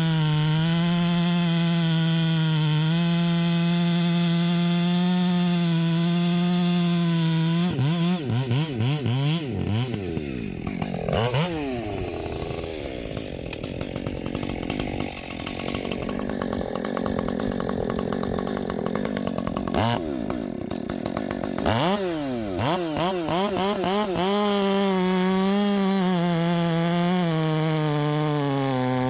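Husqvarna 564xp two-stroke chainsaw, muffler-modded, running a 32-inch bar and full-comp chain through spruce. It holds a high, steady pitch at full throttle for several seconds, then its revs swing up and down and it runs rougher and quieter through the middle. It climbs back to a high steady pitch, and the pitch drops near the end as the cut pulls it down.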